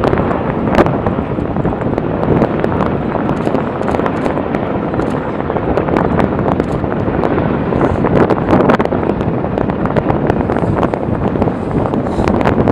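Sikorsky HH-60 Pave Hawk helicopter running, heard as dense, steady rotor and engine noise with heavy wind buffeting on the microphone. Scattered sharp cracks at irregular spacing break through it.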